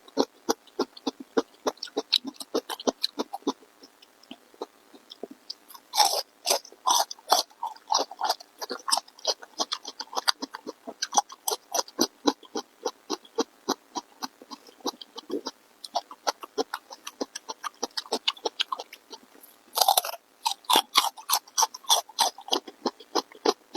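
A person chewing food close to the microphone: a fast run of small wet mouth clicks and crunches. Louder bursts of biting and crunching come about six seconds in and again about twenty seconds in.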